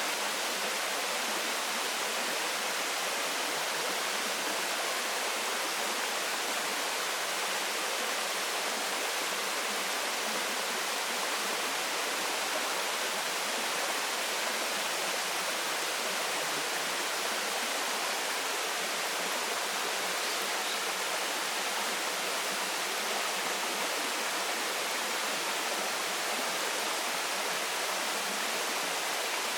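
Waterfall: a steady rush of falling water, an even hiss with no change throughout.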